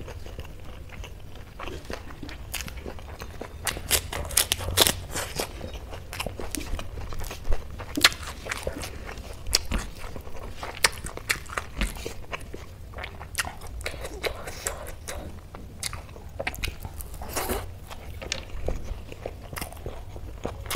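Close-miked chewing of hand-mixed rice with dal and spicy aubergine curry, with irregular sharp crisp crunches. Between bites the fingers squeeze and mix the wet rice on a brass plate.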